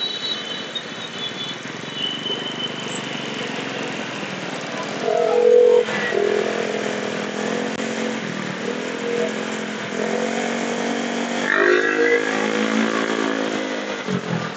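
Motorcycle engine running in road traffic over steady wind and road noise. About a third of the way in, the engine note rises and falls several times.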